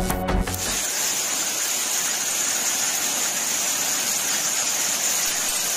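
Steady hiss of torrential rain and floodwater rushing through a street, heard through a phone's microphone, after a bar of news music that stops under a second in.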